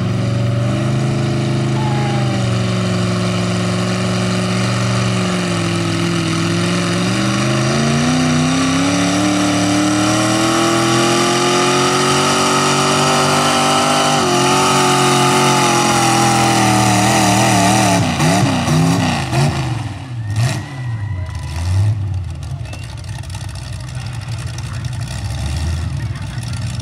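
4x4 pull truck's engine at full throttle pulling a sled, revs climbing steadily and holding high, then backing off and dropping away about 18 seconds in.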